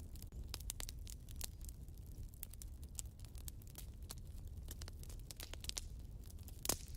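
Wood fire burning in a fireplace: a steady run of irregular crackles and small pops over a low rumble, with one louder pop near the end.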